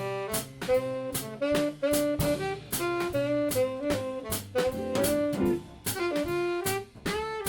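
Small jazz band playing: a tenor saxophone carries a quick melodic line of short notes over a drum kit's steady strikes.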